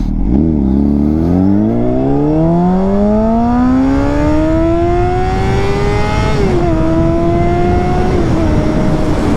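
2006 Honda CBR600RR's inline-four through a Yoshimura exhaust accelerating, its pitch rising steadily for about six seconds. Then it shifts up twice in quick succession, each shift dropping the pitch a little, and it settles into a steady tone.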